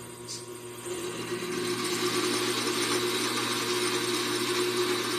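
Vevor 7x14 mini metal lathe running with a steady motor hum; about a second in the cutting tool bites into steel, adding a louder, steady cutting hiss. The motor is labouring under the cut, heavy enough that it is feared to burn the motor up.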